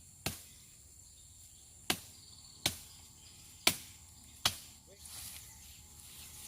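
Five sharp clicks, unevenly spaced, over a faint steady high insect drone.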